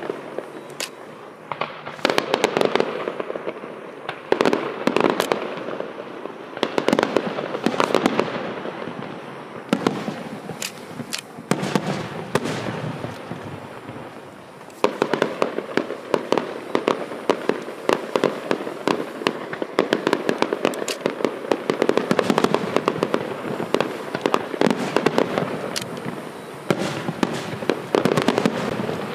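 Fireworks display: dense, rapid bangs and crackling that swell in louder waves every few seconds.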